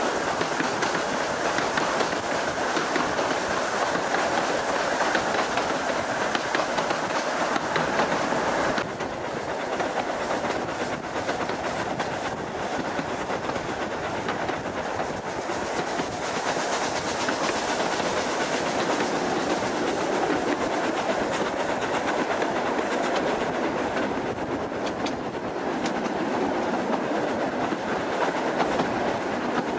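Isle of Man Railway narrow-gauge steam train on the move: the steady running noise of the carriage, with wheels clicking over the rail joints. The sound drops abruptly about nine seconds in, then carries on.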